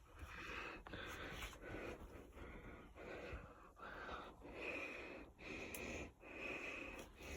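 Wheezy, whistling breathing in a string of short breaths, about one a second.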